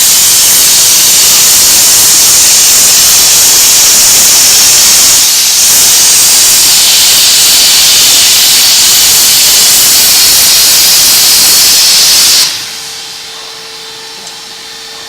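CNC plasma cutter torch cutting metal: a loud, steady hiss that dips briefly about a third of the way in and stops abruptly near the end. A much quieter background with a faint steady hum follows.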